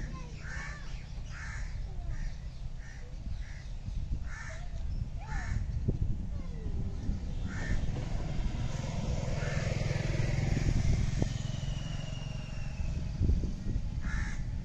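Short bird calls repeated about once a second, pausing in the middle and returning twice near the end, over a steady low rumble.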